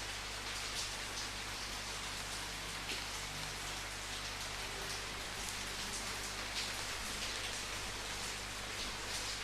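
Steady rain falling as an even hiss, with louder drops splashing now and then at irregular moments.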